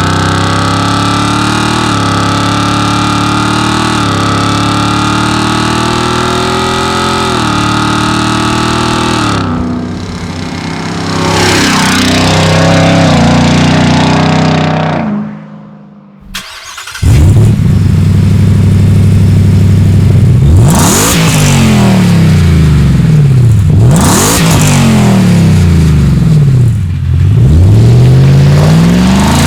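Ford Raptor R's supercharged 5.2-litre V8 running through a Borla exhaust, accelerating with the pitch climbing and dropping back at each upshift. After a short break it revs down and up again several times.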